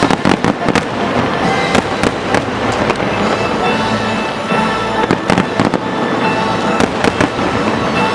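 Fireworks display: aerial shells bursting in clusters of sharp bangs, the heaviest volleys in the first second, around two seconds in, and between five and seven seconds in. Music plays steadily underneath.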